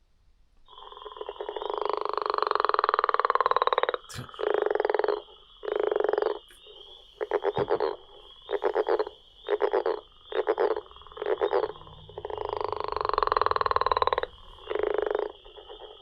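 Recorded frog calls: a long, rattling croak of about three seconds, then a run of short croaks about one a second, another long croak and more short ones, over a steady high-pitched trill.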